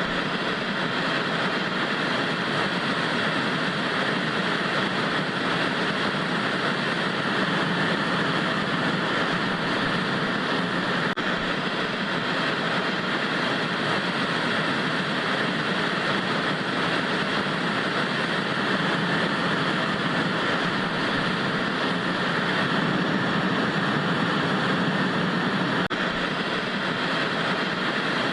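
Analogue TV static: a steady, even hiss with no change or break.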